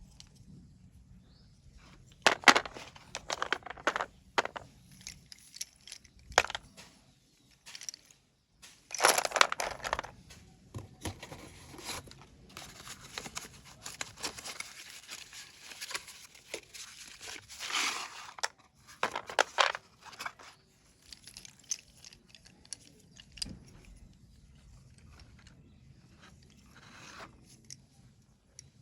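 Slate pencils being bitten and chewed: irregular bursts of crisp crunching, with the loudest around 2, 9 and 18 seconds in.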